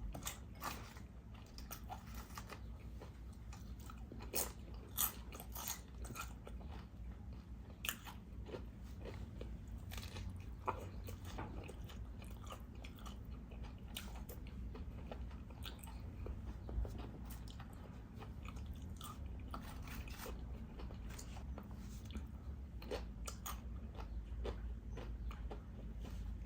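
Close-miked eating: biting and chewing with crisp crunching of Doritos tortilla chips, a few louder crunches standing out among many small ones.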